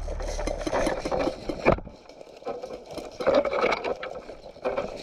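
Rushed footsteps crunching through dry leaves and brush, with irregular rustling and crackling and one sharp crack a little under two seconds in.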